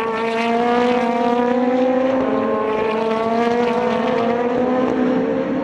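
Super GT race car engine under hard acceleration, a loud sustained note climbing steadily in pitch.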